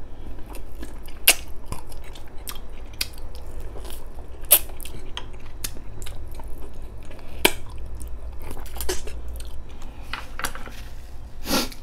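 A person chewing and biting braised pork ribs eaten off the bone by hand, close to the microphone, with irregular sharp mouth clicks, a few of them louder.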